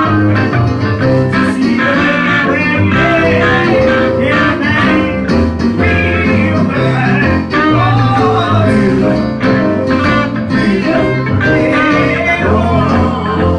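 Live gospel music with electric guitar, bass and singing.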